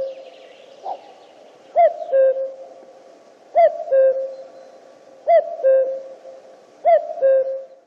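Common cuckoo calling its two-note "cuc-koo", a higher note falling to a lower one, repeated about four times at an even pace.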